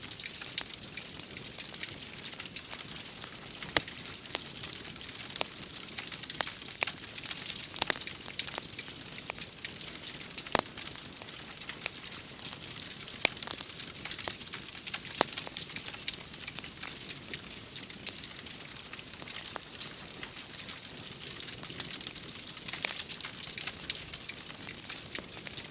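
Wood fire in a fireplace crackling, with frequent irregular sharp pops and snaps over a steady hiss of rain.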